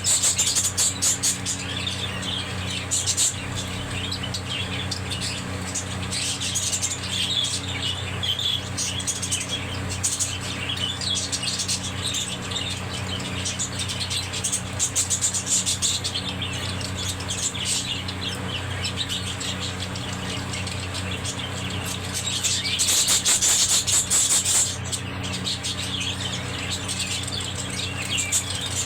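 A flock of budgerigars chattering with continuous rapid high chirps, swelling into louder bursts now and then, over a steady low hum.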